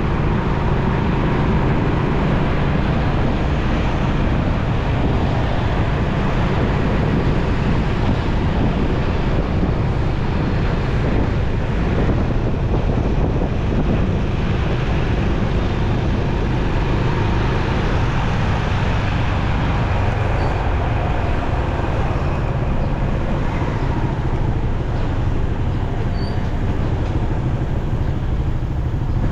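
Motorcycle riding in city traffic: steady engine and road noise at a constant loud level, with no distinct events.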